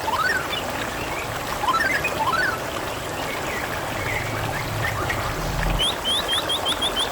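Steady trickling, babbling water with birds calling over it: rising chirps near the start and again about two seconds in, then a fast run of high chirps near the end. A low hum comes in about four seconds in and stops just before six.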